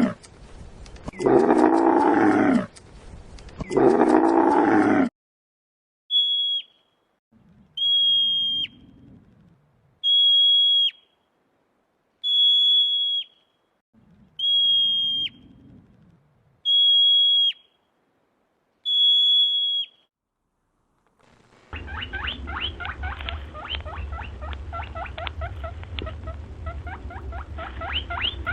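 A series of animal calls from several clips. First three long pitched calls of about a second each, then seven short high thin notes about two seconds apart, each ending in a quick drop. From about two-thirds of the way in comes a fast run of clicking chatter over a low hum.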